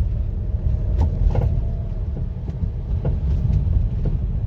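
Steady low road and engine rumble inside the cabin of a Mercedes-Benz GL 350 CDI on the move, with a few light clicks.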